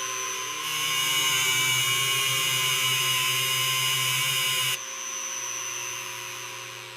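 A power tool running steadily with a whine. It is harsher and louder for about four seconds, then eases off.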